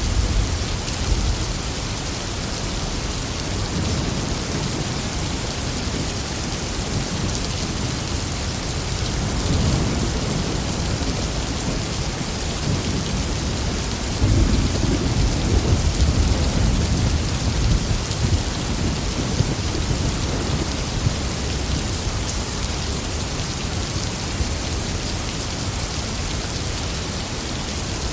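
Steady heavy rain with rolling thunder: low rumbles swell a few times, the longest and loudest about halfway through.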